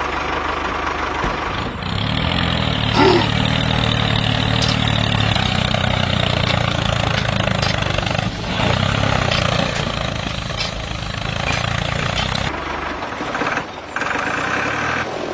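Engine running steadily with a low, even throb, dipping briefly twice near the end.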